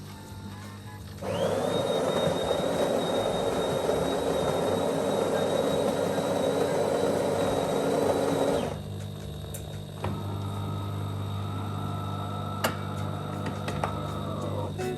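De'Longhi Dinamica Plus bean-to-cup coffee machine running: a loud whirring starts about a second in and stops after about seven and a half seconds, then a quieter steady whir runs for about four seconds.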